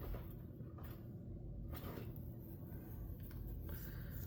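Faint rustling and rubbing of paper as the pages and tags of a handmade paper journal are handled, over a low steady room rumble.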